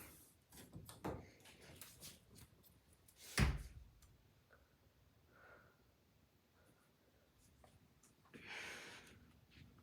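Handling noise from an iPad held in one hand: scattered soft clicks and knocks, one louder thump about three and a half seconds in, and a brief rustle near the end.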